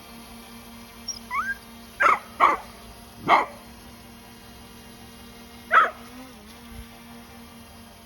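A dog barking four times: two quick barks about two seconds in, another a second later and a last one near the end, with a short rising yelp before them. A steady low hum runs underneath.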